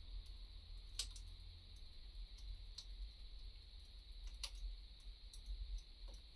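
Wood fire crackling softly: scattered small pops and clicks, the sharpest about a second in and again past four seconds, over a low steady rumble.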